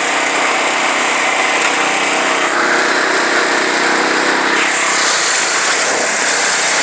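Toro X525 lawn tractor engine running steadily, its note shifting about five seconds in.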